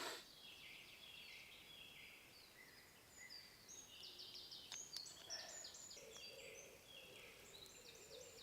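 Faint songbirds singing, several birds overlapping in quick chirps and trills: a dawn chorus. A single brief scrape sounds right at the start.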